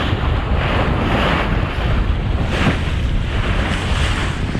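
Wind buffeting the microphone over the rush of water along the hull of a sailboat under way, in steady, noisy surges.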